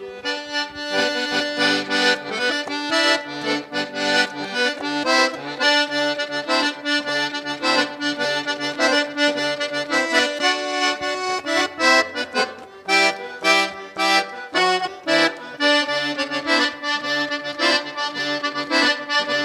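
Instrumental break of a gaúcho song: an accordion plays the melody over a rhythmic pattern of short bass notes.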